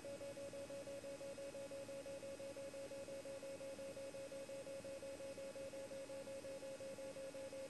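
Faint steady electrical tone pulsing several times a second over background hiss: noise on the aircraft's radio and intercom audio feed, with no transmissions.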